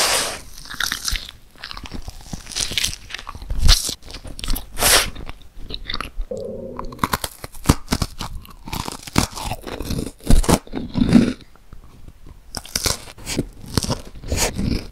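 Close-miked eating: repeated bites and crunchy chewing of snacks, including an iced cookie and a chocolate sandwich cookie, with irregular sharp crunches. A short hummed tone sounds about halfway through.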